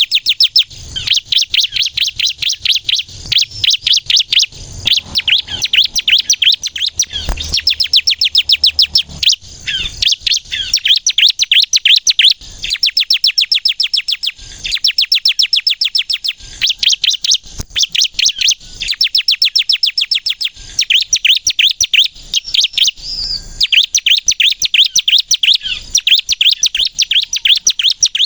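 Bar-winged prinia (ciblek) singing loudly and continuously: rapid trains of high, sharp chattering notes, about ten a second, in phrases of one to a few seconds broken by short pauses.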